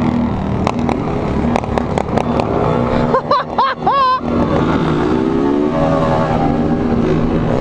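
Many small single-cylinder motorcycles, mostly Honda CG 160s, running together in a convoy, several engines overlapping and revving up and down. A brief wavering shout rises over them about three seconds in.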